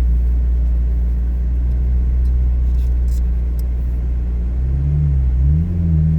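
McLaren Artura moving off slowly, a steady low drone heard from inside the cabin, its pitch dipping and rising again about five seconds in.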